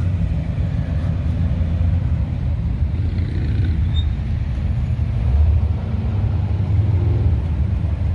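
Low, steady rumble of a car engine running, swelling slightly about five seconds in.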